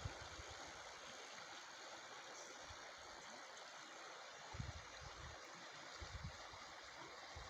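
Faint, steady rush of floodwater flowing in a creek, with a few low wind thumps on the microphone about halfway through and near the end.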